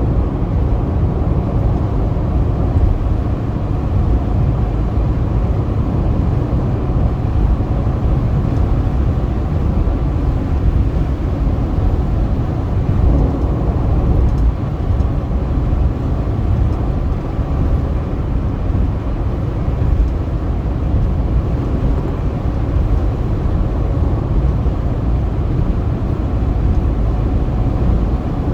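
Car driving at speed on a highway: a steady low rumble of tyre and engine noise that stays even throughout.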